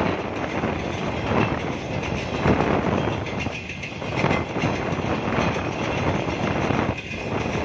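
Passenger coaches of a Pakistan Railways Green Line express rolling past close by, the wheels clattering steadily on the rails.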